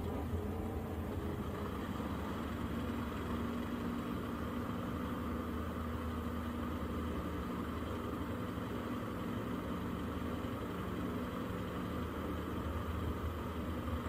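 Drag race cars' engines idling steadily at the starting line while staging.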